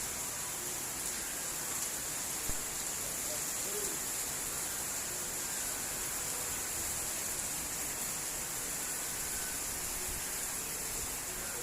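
Steady rain falling, an even hiss, with one faint knock about two and a half seconds in.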